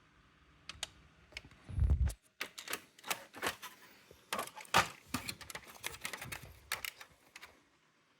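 Brother AX-425 electronic typewriter clicking and clacking in an irregular series of sharp clicks, with a dull low thump about two seconds in.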